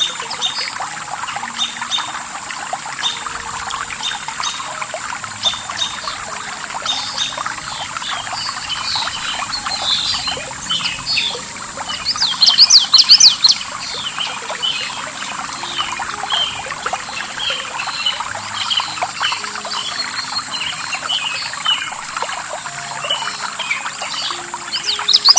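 Running water of a stream with small birds chirping over it, a louder run of rapid chirps about halfway through. A steady thin high tone sits under it all.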